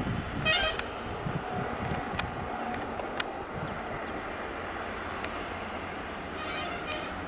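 Diesel-hauled passenger train running away along the track, its coaches and wheels rumbling steadily and easing off slightly after the first couple of seconds. A few sharp clicks early on, and two brief high trills, one about half a second in and one near the end.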